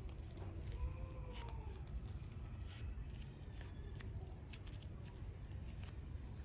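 Hands working super clay and its packaging: soft tearing and squishing with small crinkling clicks scattered through, over a low steady rumble.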